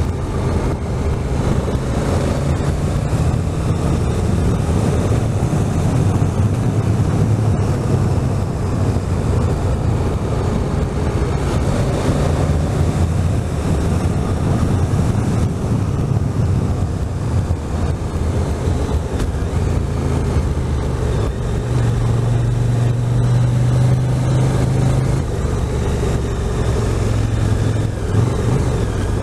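Motorcycle engine running steadily while riding, with wind rushing over the microphone; the engine note rises and falls now and then with the throttle.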